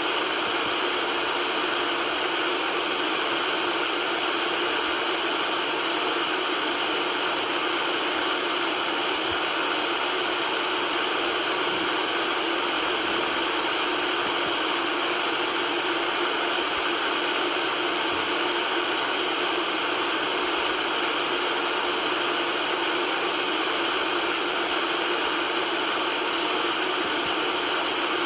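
Steady white noise: an even, unchanging hiss with little bass, running without a break.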